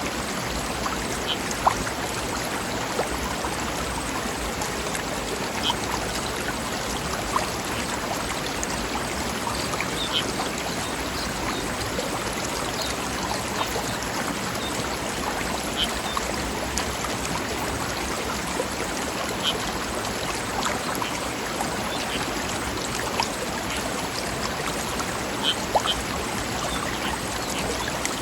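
Forest river or stream running over rocks: a steady rushing babble of water, with small splashes and plops here and there.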